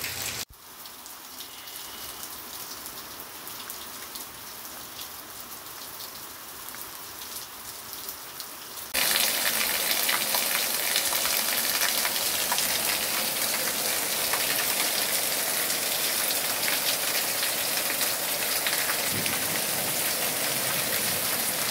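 Rain falling: a light, even hiss at first, then about nine seconds in a sudden change to a much louder, denser hiss of heavy rain pouring onto the ground and a roof overhang.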